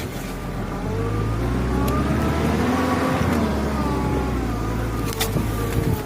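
UAZ off-road vehicle's engine under load, the revs climbing to about halfway and then easing off again. There is a short knock about five seconds in.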